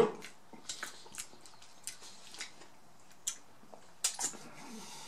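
Close-miked eating of a Texas toast chopped cheese sandwich: chewing with scattered wet mouth clicks and smacks, a few sharper ones after about three seconds.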